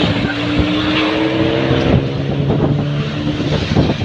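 Racing trucks' diesel engines running at speed on the circuit, a steady engine note.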